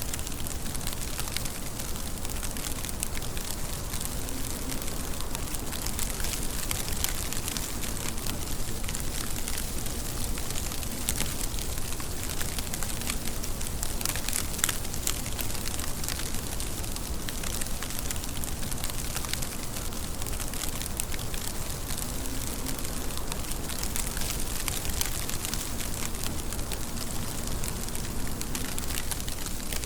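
Steady rain falling, a dense even hiss of drops with fine pattering ticks throughout.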